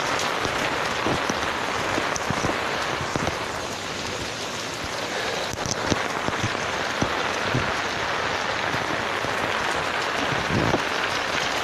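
Heavy rain falling steadily, with irregular sharp taps of drops hitting a small umbrella held close over the phone.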